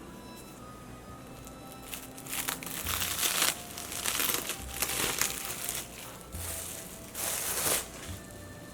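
Crinkling in four bursts, over soft background music.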